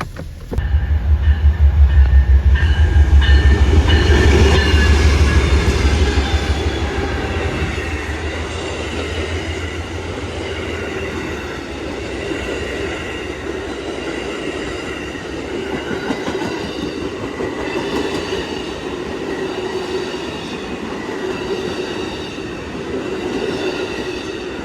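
A train passing close by. A heavy low rumble starts suddenly and lasts about the first six seconds, then the cars roll past steadily with thin high wheel-squealing tones.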